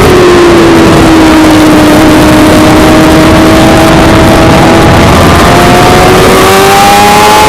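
Suzuki GSX-R600 inline-four sportbike engine at track speed: the engine note falls over the first couple of seconds, holds steady for a few seconds, then climbs again as the bike accelerates.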